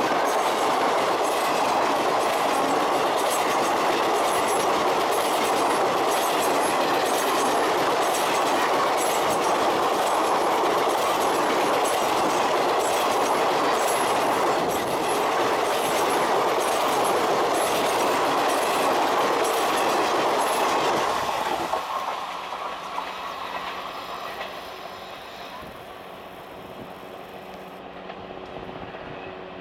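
Passenger coaches of an express train passing at speed close by: a loud rush of wheels on rails with a steady clickety-clack of wheels over rail joints. About three-quarters of the way through, the sound drops to a much quieter, more distant train noise.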